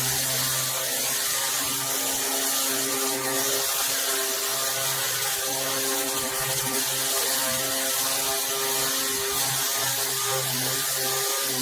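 Electric sander fitted with a 60-grit disc, sanding a boat hull: a steady, even motor hum under a high hiss.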